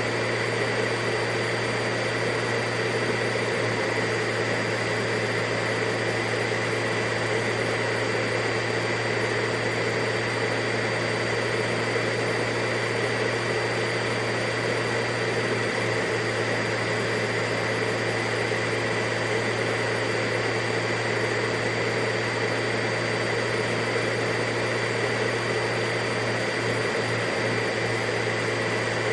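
Vacuum cleaner running steadily, a continuous rushing noise with a constant hum and whine that does not change.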